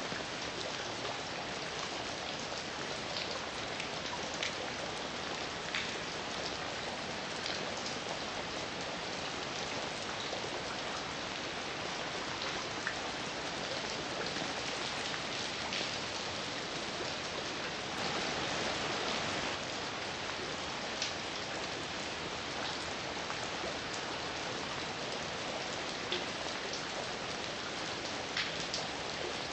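Steady heavy rain falling, with individual drops ticking sharply on a nearby surface every second or two. The rain swells slightly for a moment past the middle.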